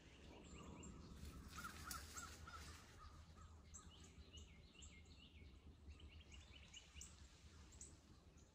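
Faint birdsong: many short high chirps from several birds, with a quick run of lower notes about two seconds in.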